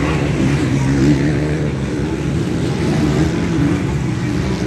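Motocross bike engines running and revving, the engine note wavering up and down.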